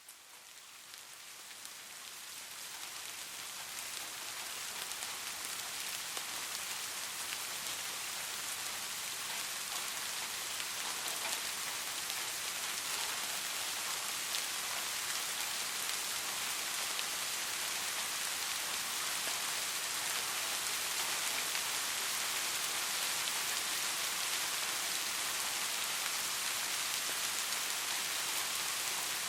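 Soft rain falling steadily, a dense even patter of drops, fading in over the first few seconds and then holding steady.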